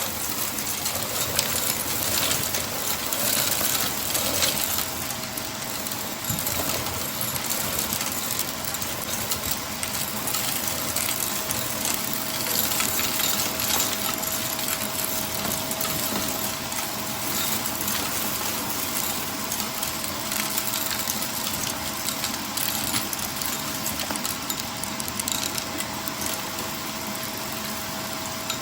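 Vacuum cleaner running steadily with a crackle of small debris being sucked up. A steady whine comes in about six seconds in.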